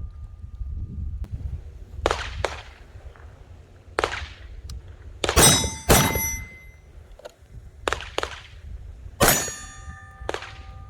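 Pistol shots fired singly and in quick pairs, about nine in all, with steel targets ringing after the hits.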